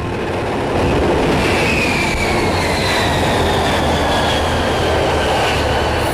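Jet engine running loud: a deep rumble under a high whine that slides slowly down in pitch.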